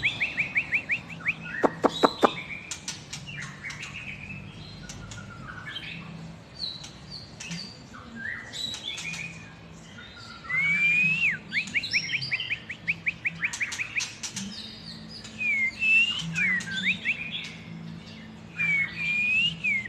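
White-rumped shama (Medan murai batu) singing a loud, varied song in phrases: fast trills, sharp clicks and rising and falling whistles, with short pauses between.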